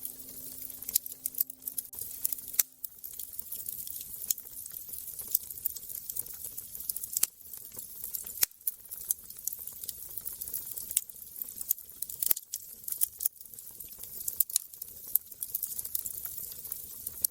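Wood fire crackling, with frequent sharp snaps and pops over a steady hiss.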